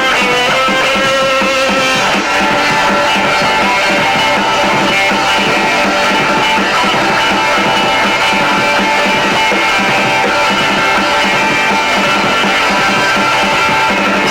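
Rock band playing a guitar-led instrumental passage of a song, with no singing.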